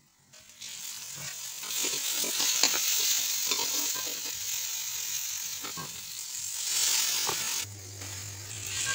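Chopped tomato and onion masala sizzling as it fries in oil in a pan, with a few clicks. Near the end the sizzle drops away and a low steady hum comes in.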